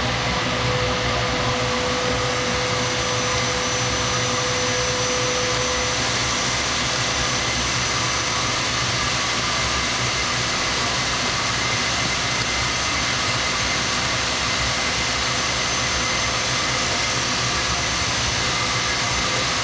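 A power tool running steadily on a concrete slab: a continuous loud mechanical noise with a few steady whining tones on top.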